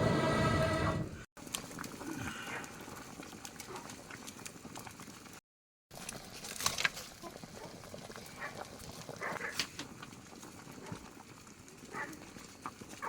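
A loud, steady pitched tone is cut off about a second in. After it come scattered short calls of ducks among faint clicks and rustles.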